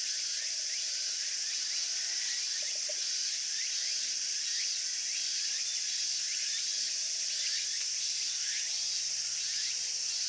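A steady chorus of summer insects: a dense, high-pitched buzz that never lets up, with many short repeated chirps beneath it.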